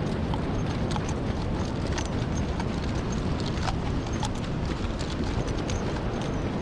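Steady rushing of surf and wind on the microphone, with scattered faint clicks throughout.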